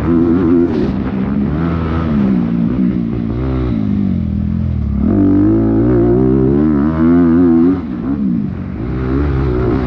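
Dirt bike engine revving hard and easing off over and over as the rider works the throttle, heard from on board the bike. About five seconds in the revs fall low, then climb again.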